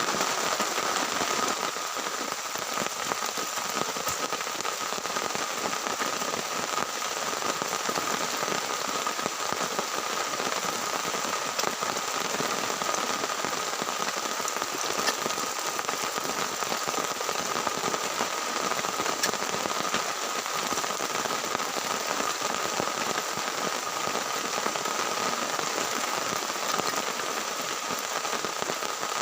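Heavy rain falling steadily on a tent, with scattered sharper drop ticks and a faint steady high tone underneath.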